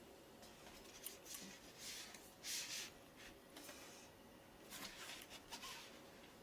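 Faint short swishing or rustling sounds, several in a row, the loudest about two and a half seconds in.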